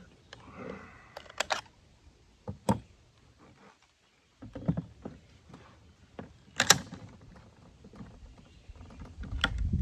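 Handling noises from a Swiss K31 straight-pull rifle: a series of separate sharp clicks and knocks of metal and wood parts, with a dull rumble of handling near the end.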